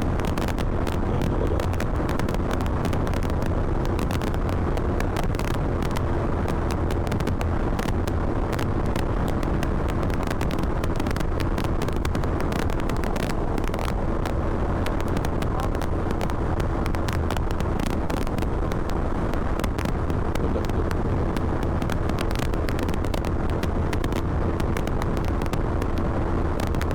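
Motorcycle running at a steady cruise, with loud wind rumble and crackling buffeting on the microphone over a faint steady engine note.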